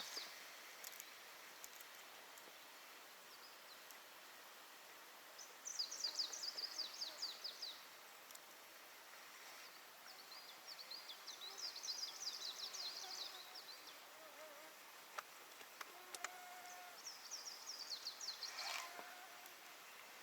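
A small songbird singing three short, rapid trilled phrases, each about two seconds long and several seconds apart, faint over a quiet background.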